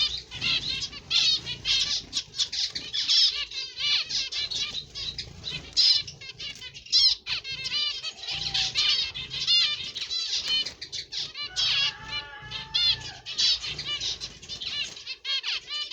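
A flock of small birds chirping constantly in quick, overlapping short notes, with wings fluttering as they land close by.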